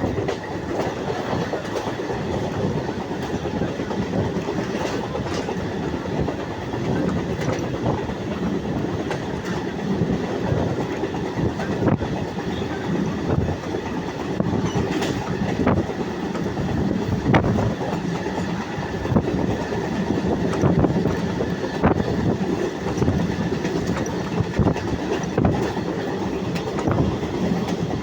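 Train running steadily over a railway bridge: a continuous rumble of wheels on rails, with sharp wheel clicks over rail joints every couple of seconds.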